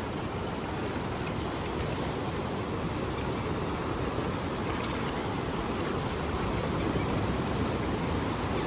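Steady wash of ocean surf and wind, an even rushing noise that grows slightly louder toward the end.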